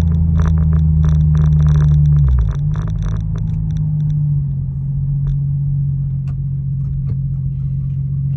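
BMW 335i's single-turbo N54 straight-six running at low speed with a steady low drone. About two seconds in the drone drops to a lower, even hum. A patter of small sharp ticks runs over the first few seconds.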